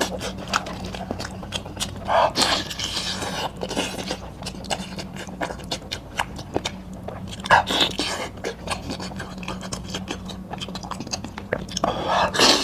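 Close-miked eating sounds: a person chewing goat-head meat with many quick wet mouth clicks, and louder slurps about two, eight and twelve seconds in.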